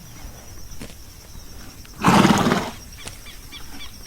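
A horse snorting once, a short loud breathy blast about two seconds in, followed by faint whinny-like calls near the end.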